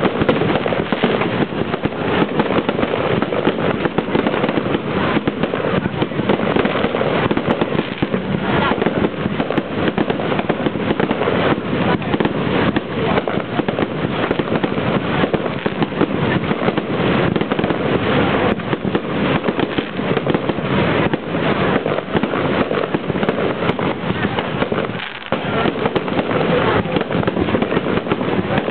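Fireworks display: a dense, unbroken barrage of bangs and crackles, with a brief lull about 25 seconds in. It sounds dull, because a low-quality recording cuts off the high end.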